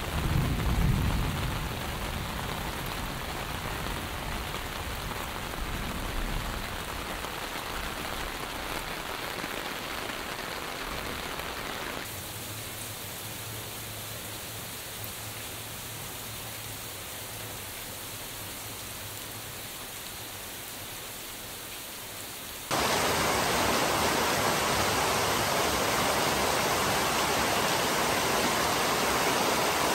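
Heavy monsoon rain falling steadily on the ground and on leaves, a continuous hiss of drops, with a brief low rumble about a second in. It turns quieter about twelve seconds in, then abruptly much louder and denser about twenty-three seconds in.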